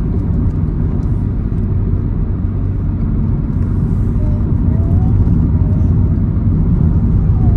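Car cabin road noise while driving: a steady low rumble of engine and tyres.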